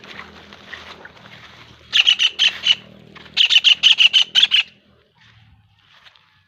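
A bird squawking in two quick runs of harsh, rapid calls, about five or six a second, the second run longer.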